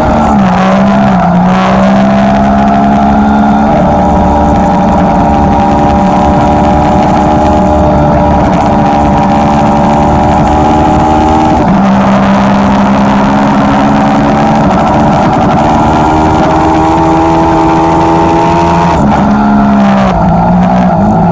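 Ducati sport bike's V-twin engine running hard on the track, heard from the bike itself with wind rush. The engine note falls at the start, rises gently, drops suddenly about halfway through at a gear change, and falls again near the end as the bike slows for a corner.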